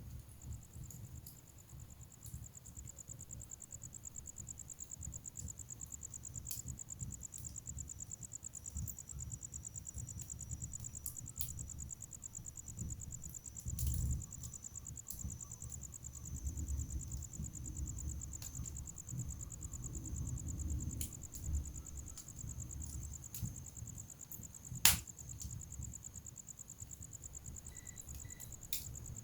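Wood fire burning in a fireplace: a low crackling rumble with scattered pops, one sharp loud pop about 25 seconds in. A steady high trill runs over it throughout.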